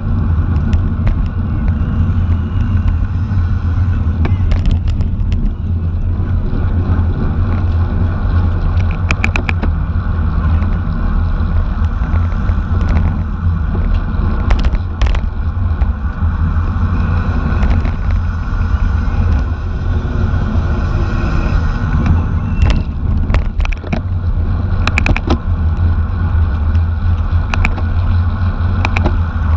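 Steady wind rumble on a camera microphone moving at racing speed in a bicycle race, with scattered sharp clicks.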